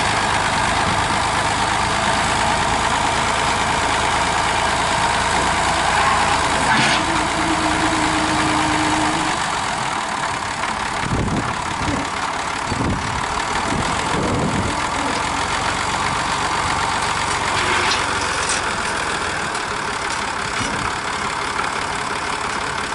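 An engine idling steadily, with a brief steady tone near the middle and a few knocks later on.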